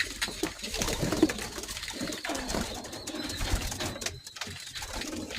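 Homing pigeons cooing in a loft, a low, uneven murmur with a few small knocks.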